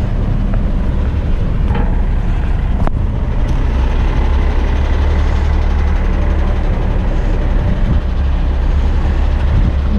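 Heavy tipper truck's diesel engine running with a steady low rumble. One sharp click about three seconds in.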